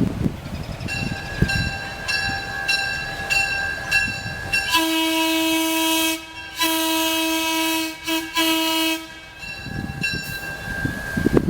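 Locomotive bell ringing steadily while the horn sounds the long, long, short, long grade-crossing signal, the horn loudest; the bell carries on alone after the horn stops.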